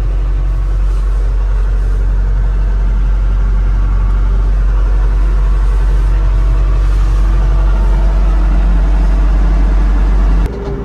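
Steady low rumble of a running vehicle, unchanging throughout, cutting off abruptly near the end.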